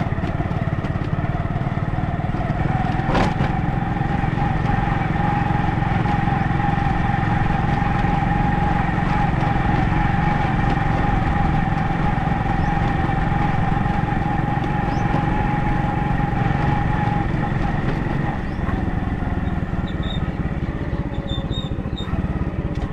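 A vehicle engine running steadily, with a steady high whine through most of the stretch and a single sharp click about three seconds in.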